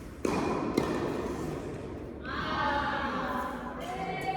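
Tennis ball impacts on an indoor court: a thud about a quarter second in and a sharp hit a little under a second in, with the hall's echo behind them.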